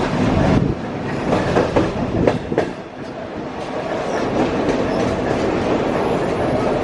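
Train running on the rails, its wheels clicking and knocking irregularly over the rail joints, with a heavier rumble in the first second.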